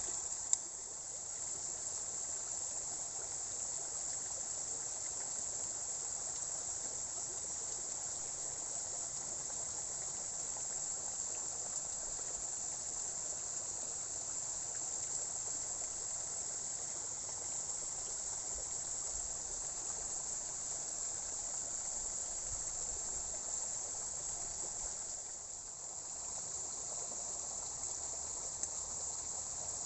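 Steady, high-pitched chorus of insects chirring without a break, over a faint even hiss.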